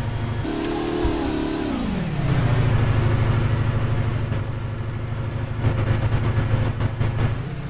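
An engine running, its pitch dropping about two seconds in and then holding at a steady, lower speed.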